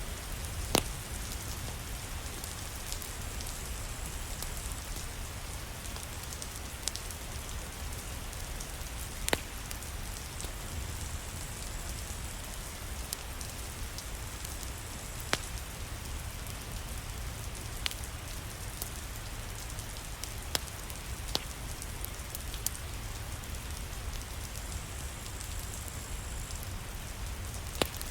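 Steady rain falling, with a low rumble underneath and occasional sharp clicks every few seconds.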